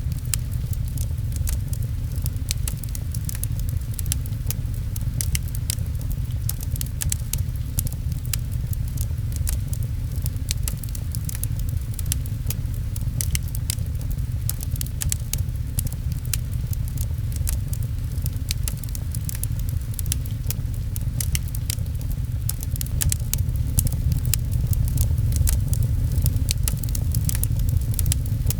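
Wood fire crackling, with many small sharp pops and snaps over a steady low rumble, mixed with rain patter; the pops grow busier and louder in the second half.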